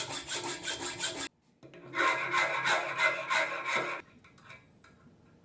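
Hacksaw cutting through a stainless steel bolt, quick back-and-forth strokes that pause briefly about a second in, resume, and stop about four seconds in.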